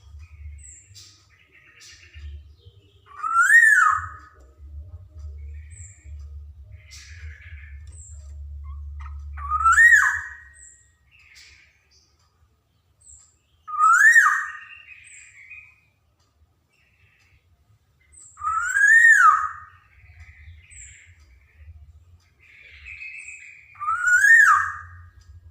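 Black-naped oriole (kepodang emas) singing: a loud whistled note that rises and falls, repeated five times about every five seconds, with softer short calls in between.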